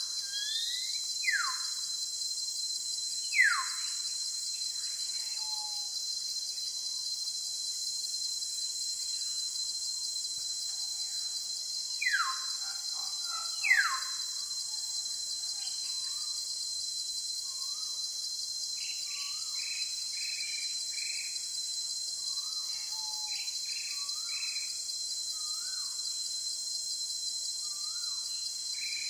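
Jungle ambience: a steady, high-pitched chorus of crickets or cicadas, with a bird giving four loud, quick downward-sweeping whistles in the first half, followed by a run of short chirps from birds.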